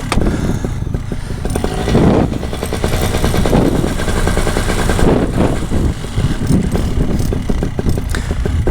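Paramotor engine running steadily, a fast stream of firing pulses, swelling a few times, mixed with wind noise on the microphone.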